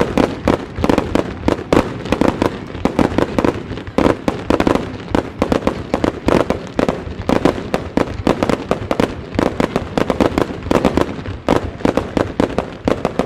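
Wide starmine fireworks barrage: many shells launching and bursting in rapid succession, a dense run of loud bangs and booms several per second with no let-up.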